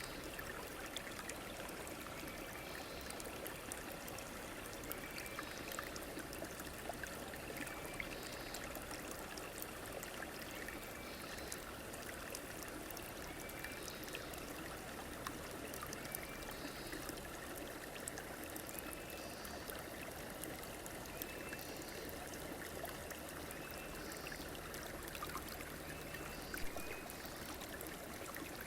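A river runs steadily, flowing water with a constant rushing hiss. A short high call repeats over it about every two to three seconds.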